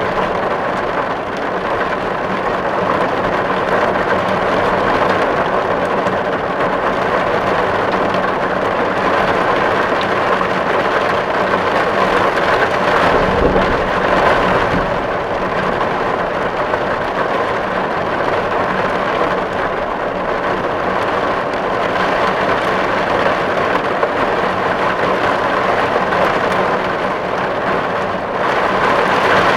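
Steady, dense rain drumming on a tin roof. About halfway through there is a brief low rumble.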